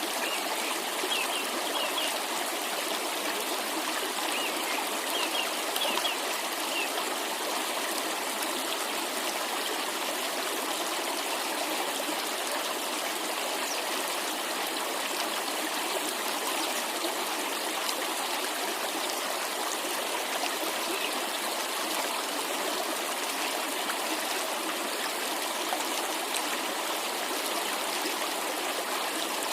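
Running water of a cascade: a steady, even rush and trickle. A few short high bird chirps come in the first several seconds.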